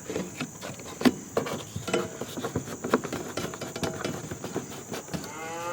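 Irregular crackling and clicking of the plastic backing being peeled off sticky EternaBond roof-sealing tape as the strip is laid down. A cow moos once near the end.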